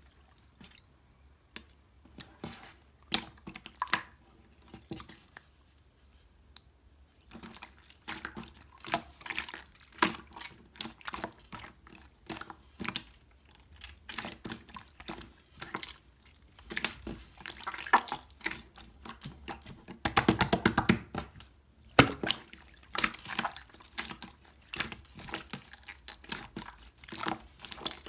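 Clear slime being squished, poked and stretched by hand: irregular wet clicks, pops and squelches, with a fast run of crackling pops about twenty seconds in.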